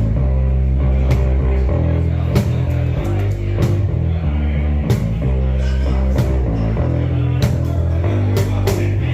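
Rock band playing live: electric guitar and bass guitar over a steady drum beat.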